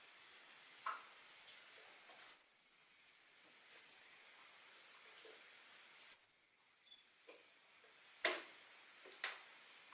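Orange-headed thrush calling: two thin, high whistles that slide downward, about four seconds apart, over fainter held high notes in the first half. A few short, sharp clicks come near the end.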